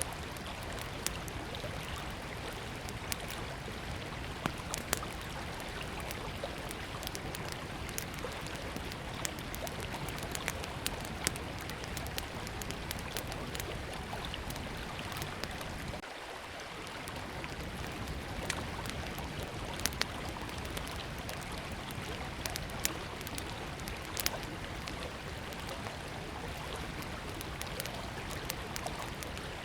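Small wood campfire crackling, with frequent sharp irregular pops and snaps, over the steady rush of river water.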